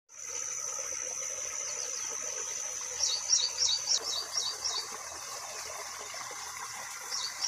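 A high, steady insect drone for the first three seconds, then a bird calling a rapid series of quick two-note chirps, about four a second, which fades and starts again near the end.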